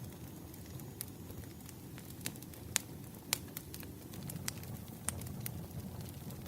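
Firewood burning: a steady low rush of flames with scattered sharp crackles and pops, the two loudest about three seconds in, half a second apart.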